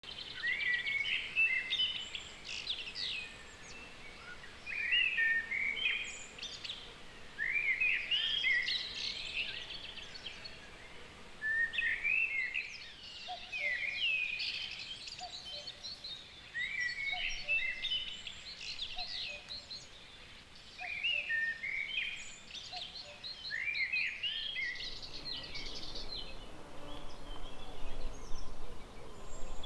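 A songbird singing the same short warbled phrase over and over, one phrase every three or four seconds, over a light outdoor background hiss. Through the middle a faint, lower single note repeats about once a second.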